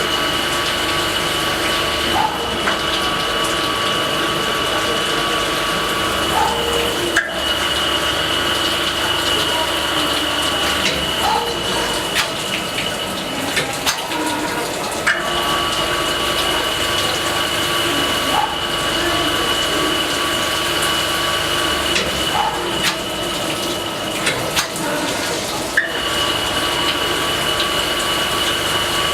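CNC saw-blade sharpening grinder running, grinding the carbide tips of a circular saw blade under a flow of coolant: a steady whine with a running-water wash. The whine drops out and returns every eight to ten seconds, with light clicks every couple of seconds.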